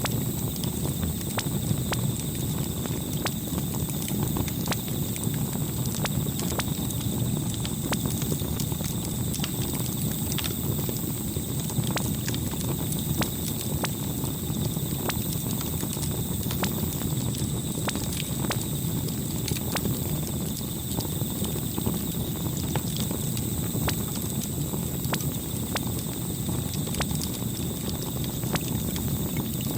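Campfire burning: a steady low rumble with frequent irregular crackles and pops from the burning wood.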